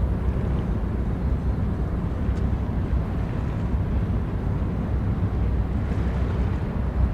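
Steady low rumble of a large ship's engines as it gets under way, even throughout with no sudden sounds.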